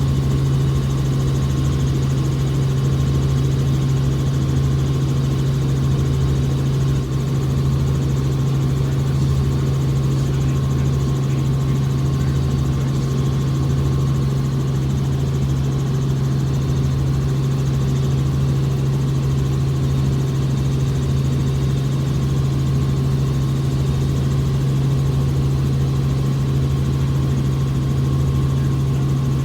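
Helicopter running in flight: a loud, steady engine and rotor drone with an even low throb and no change in pitch.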